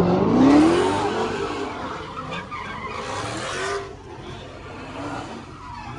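A car engine revving up, its pitch rising over the first second, with tyres screeching as the wheels spin. The sound fades over the following seconds.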